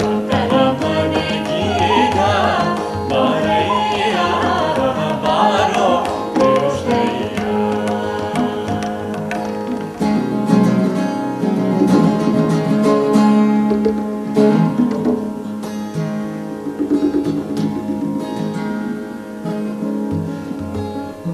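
Live band of guitar, flute, drum kit and tabla playing an instrumental passage of a Kannada devotional song. A wavering, ornamented melody line rides on top for the first several seconds, then guitar chords and sustained notes carry on.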